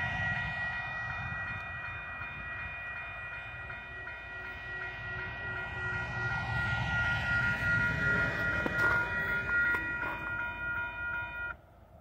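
Distant approaching empty coal train: a low rumble with steady high-pitched ringing tones held above it. A pickup truck passes on the road midway, and the sound cuts off abruptly near the end.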